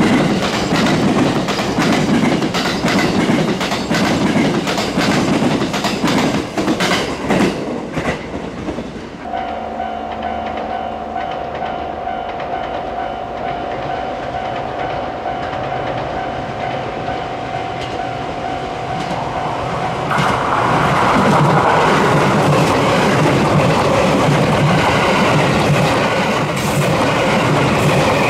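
JR West 287 series electric express train passing close by, its wheels clattering over the rail joints. It goes quieter for about ten seconds in the middle, with a steady whine, then from about 20 seconds in the rumble and clatter of a close pass rise again.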